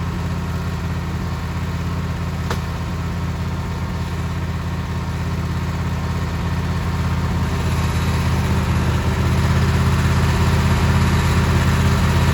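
An engine running steadily, getting a little louder from about halfway through, with a single sharp click about two and a half seconds in.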